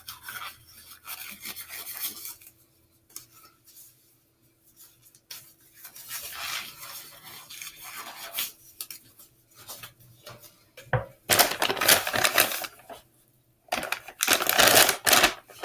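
Kitchen handling noises: plastic rustling and crinkling, as of disposable gloves and a plastic bag, with light clinks of dishes. The sounds are irregular and grow loudest in two rustling bursts near the end.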